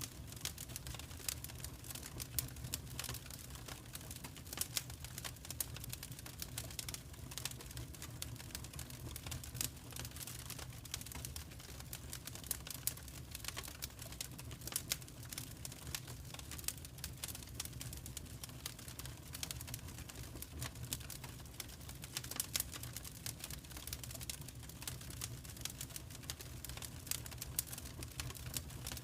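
Wood fire in a fireplace crackling, with dense, irregular sharp pops and snaps over a steady low rumble.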